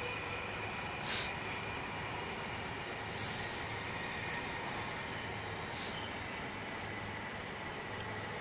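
Steady running noise of a Sydney Trains S-set double-deck electric train, heard inside the moving carriage. Three short high hisses cut through it: the loudest about a second in, the others at about three and six seconds in.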